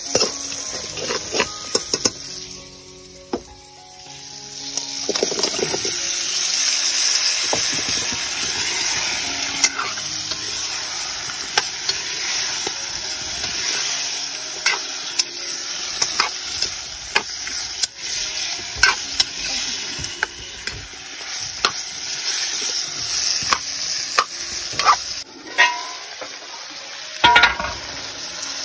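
Masala, then pork and gourd pieces, frying in hot oil in a steel kadhai, stirred with a metal spoon that scrapes and clinks against the pan. The sizzling drops low for a couple of seconds near the start, then comes back loud and stays steady.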